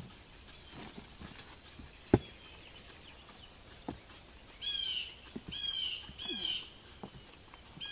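A bird calling from about halfway through: a run of short, downward-sliding chirps repeated roughly every 0.7 seconds. Before it, faint scattered clicks and one sharp knock about two seconds in.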